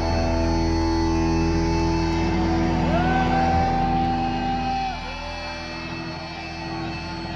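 Amplified electric guitars ringing out sustained notes over a low rumble, with one high note sliding up about three seconds in, held, then sliding down about two seconds later, after which the sound gets somewhat quieter.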